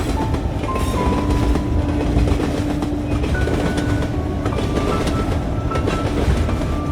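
Train running along the track, a steady rumble with the clickety-clack of wheels over rail joints, heard from inside the carriage.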